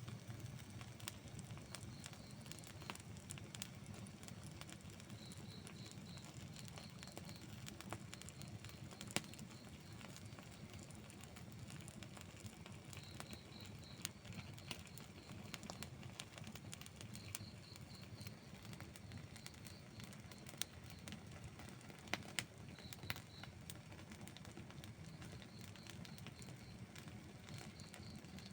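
Outdoor wood fire burning, with a steady low rumble and constant small crackles and a few sharper pops scattered through. Behind it, short runs of high chirps repeat every few seconds.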